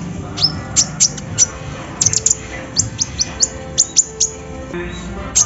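Kolibri ninja sunbird singing a rapid run of sharp, high chirps, each note a quick downward sweep, several a second, over a steady low hum.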